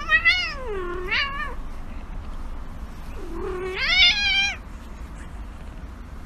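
Grey cat meowing in drawn-out, wavering yowls while a hand rubs its belly: one running on at the start, a short one about a second in, and a long one around the middle.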